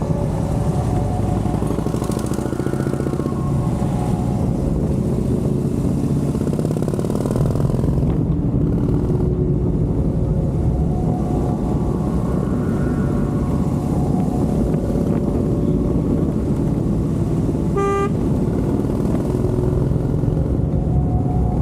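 Harley-Davidson Dyna's air-cooled V-twin engine running on the road, its pitch rising and falling with the throttle. A short single horn beep sounds near the end.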